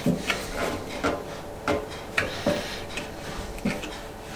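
Squeegee rubbing over a wet decal on a motorcycle fuel tank in short repeated strokes, about two a second, pressing the water out from under the sticker.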